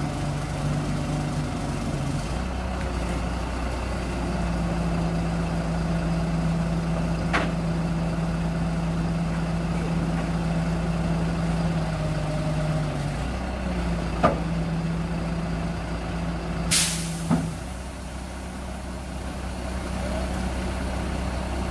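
Heavy diesel engine of a crane truck running steadily, its hum shifting pitch a couple of times as the load changes, with three sharp knocks spread through. Late on comes one short loud hiss of released air, like an air-brake release.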